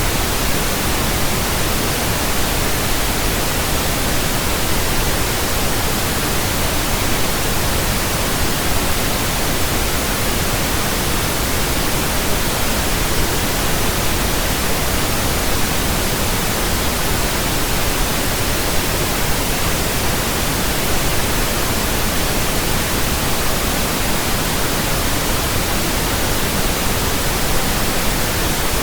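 Pink noise from a signal generator: a steady, even hiss spread across the whole range from deep rumble to high hiss, with no change. It is a burn-in test signal for breaking in new speakers, headphones and earphones.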